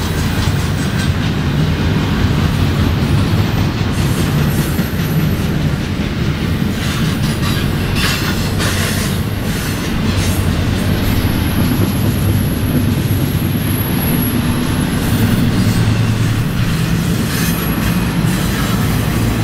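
BNSF intermodal freight train of loaded double-stack and trailer cars rolling past close by, a steady rumble of steel wheels on rail with some clatter about eight seconds in. A thin, high wheel squeal rings for a few seconds around the middle.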